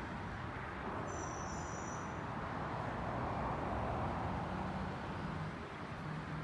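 Peterbilt green-waste collection truck's diesel engine running with a steady rushing noise that swells about three to four seconds in.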